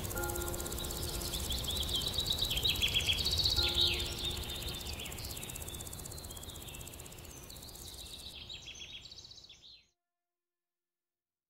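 Several birds singing and chirping over a low background rumble. The whole fades down and ends in silence just under ten seconds in.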